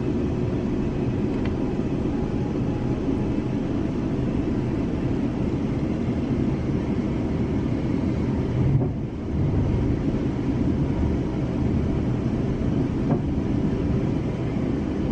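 Steady low rumble inside a moving passenger train carriage: wheels running on the rails, with a brief knock and momentary dip in the noise about nine seconds in.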